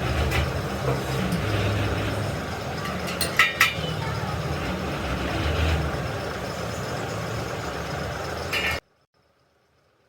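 Steady low rumble of a vehicle engine running, with a few sharp metallic clinks about three and a half seconds in; all sound cuts off abruptly near the end.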